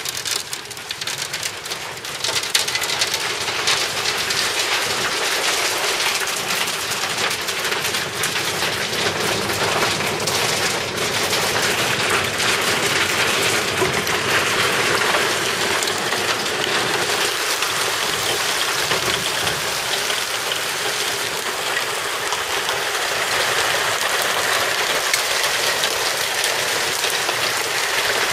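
Hail and heavy rain pelting down on hard surfaces: a dense, steady clatter of countless small impacts that grows louder about two seconds in.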